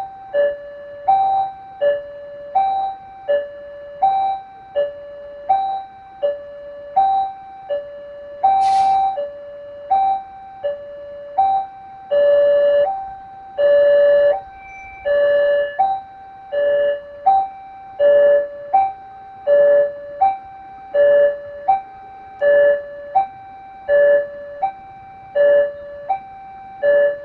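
Railway level-crossing warning alarm repeating an electronic two-tone ding-dong, a higher note then a lower one, over and over; it becomes louder and fuller about twelve seconds in. A short sharp noise cuts through about nine seconds in.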